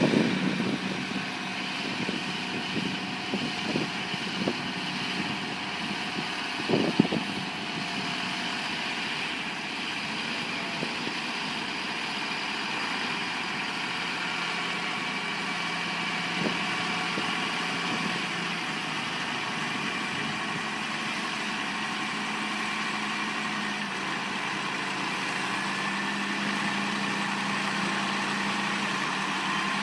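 A heavy vehicle's engine running steadily, with a few knocks in the first several seconds, the sharpest about seven seconds in.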